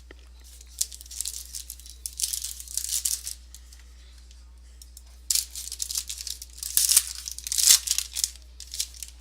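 A foil trading-card pack being torn open and its wrapper crinkled, in two spells of rustling and tearing, the first about a second in and the second from about five seconds in.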